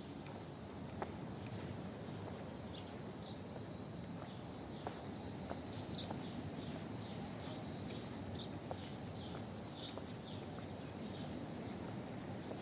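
Outdoor ambience: small birds chirping over and over in short high calls above a steady background noise, with a few faint clicks.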